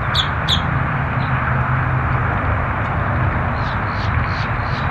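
Steady rushing noise with a low hum underneath, as outdoors at an airfield, with two short high bird chirps at the start and a run of faint chirps near the end.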